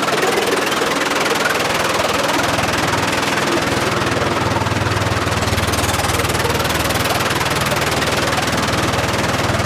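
Engine-driven machinery running steadily, with a constant low hum under a wide noisy roar.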